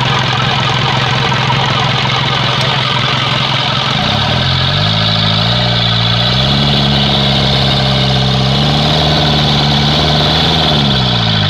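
Isuzu 4HF1 four-cylinder diesel engine running at idle, then revved up in steps from about four seconds in, held at a higher speed, and let fall back toward idle near the end. A surplus injector nozzle has just replaced the clogged one that caused its misfire and vibration.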